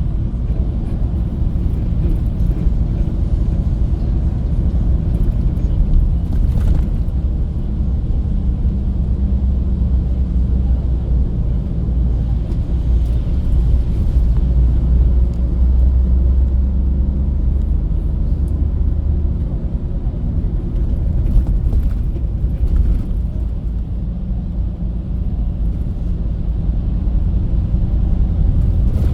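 Bus engine and road noise heard inside the cabin: a steady low rumble. The drone swells from about a quarter of the way in and eases about two-thirds of the way through.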